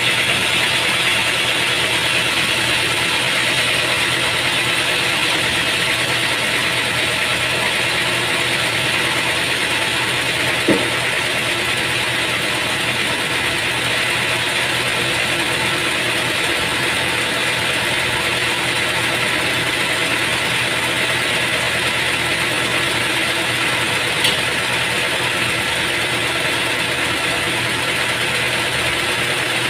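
Sawmill machinery running steadily with a constant mechanical hum and whine. Two brief clicks come about 11 and 24 seconds in.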